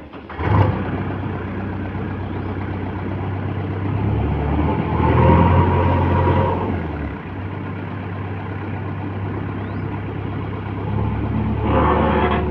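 JCB 3DX backhoe loader's diesel engine running, starting abruptly about half a second in. It revs up from about four and a half seconds, eases back about two seconds later, and revs up again near the end.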